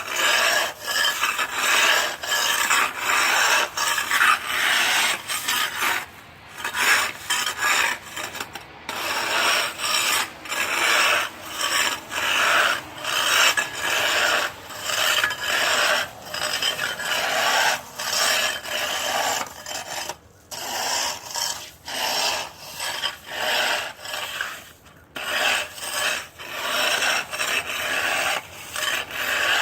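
Ice being scraped off a surface in quick, repeated rasping strokes, with a few brief pauses between runs of strokes.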